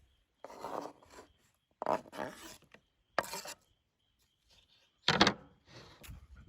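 Knife cutting food on a wooden board: five short rasping strokes at uneven spacing, the loudest near the end.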